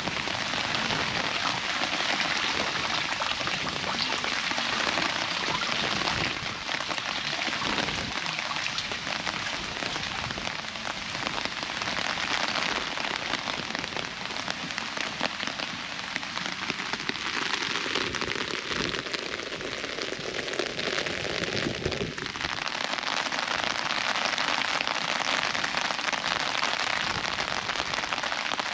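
Steady rain pattering on an umbrella overhead, many close drops ticking on the fabric. Midway a whoosh rises in pitch for several seconds, then falls away sharply.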